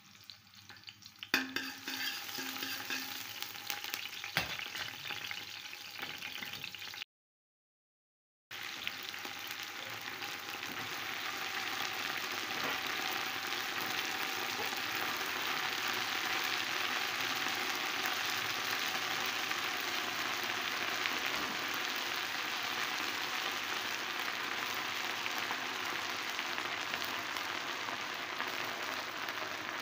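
Chopped garlic sizzling in hot oil in a stainless steel pot. After the sound cuts out for a moment about seven seconds in, dried molokhia (jute mallow) leaves fry in the oil with a steady sizzle that grows fuller.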